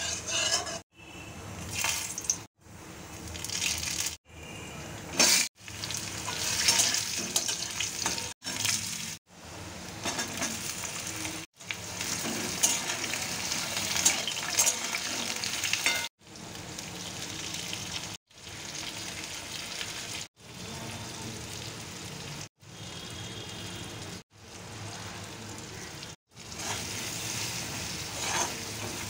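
Oil sizzling in a steel kadai as spice paste and then chunks of potato and pointed gourd fry, with a metal spatula stirring through them. The sizzle is broken by short sudden silences every second or two.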